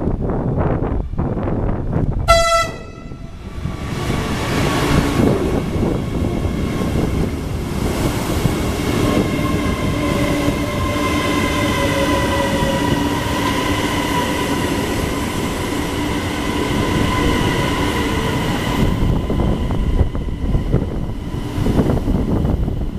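CRH1E high-speed electric train sounds one short horn blast. It then runs past with a rumble of wheels on rail and a whine from its electric traction equipment, and the whine slowly falls in pitch as the train slows to arrive.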